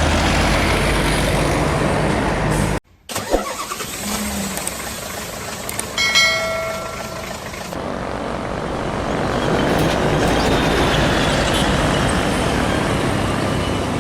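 Heavy trucks passing on a road: steady engine drone and tyre noise. The sound cuts out for a moment about three seconds in. A short, steady pitched tone sounds for about a second and a half, about six seconds in.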